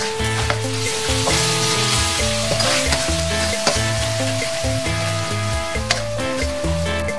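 Chopped garlic and dried chili sizzling in hot oil in a wok while a wooden spatula stirs and scrapes through them, with a few scraping clicks against the pan.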